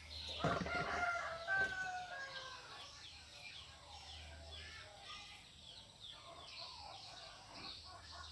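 A rooster crowing once, about half a second in, for roughly two seconds, followed by many faint, short high chirps.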